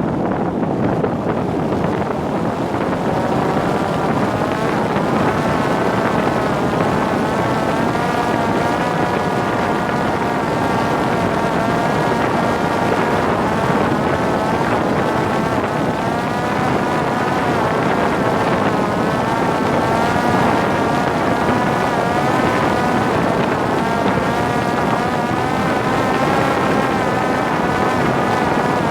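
Parrot Disco fixed-wing drone's electric motor and rear pusher propeller whining in flight, the pitch drifting up and down as the throttle changes, over a steady rush of wind on the onboard microphone.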